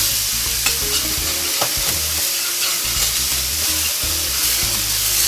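Smashed ground-turkey burger patties sizzling steadily as they fry in a hot pan.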